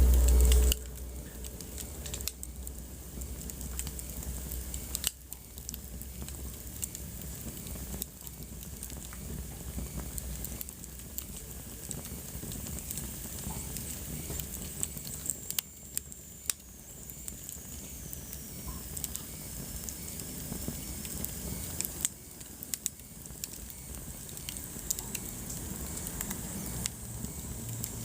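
Wood fire burning in a fireplace, crackling with irregular sharp pops over a steady soft hiss. A loud low rumble fills the first second, and a faint high whistle slowly falls in pitch around the middle.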